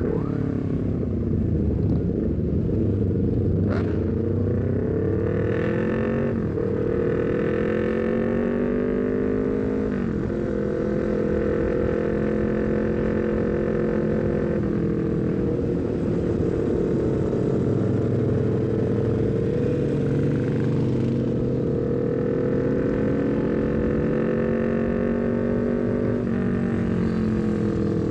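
Honda CBR250RR parallel-twin engine through a full-system Leovince GP Corsa carbon exhaust, heard from the bike while riding. The revs climb and fall, with quick gear changes about 4, 6, 10 and 26 seconds in.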